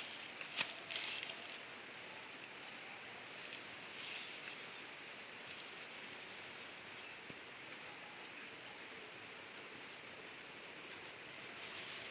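Quiet outdoor ambience: a steady high hiss with a faint, evenly repeating high-pitched chirping, insect- or bird-like, and a sharp click about half a second in.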